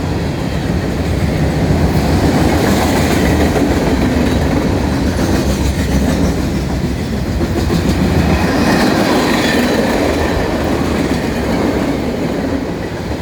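Norfolk Southern freight train rolling past, a steady, loud noise of steel wheels on rail with no horn.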